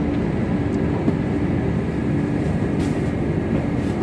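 Passenger train rolling slowly out of the station, heard from inside the coach: a steady rumble with a low hum running through it and a few faint clicks.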